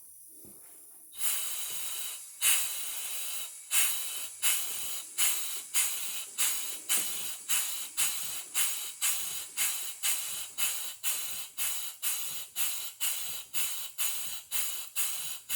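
A 1/2 hp G. Sipp live steam engine starting up. About a second in, steam begins to hiss, then the exhaust chuffs start: slow and uneven at first, then quickening to a steady beat of about two a second. The engine is still breaking in after its rebuild.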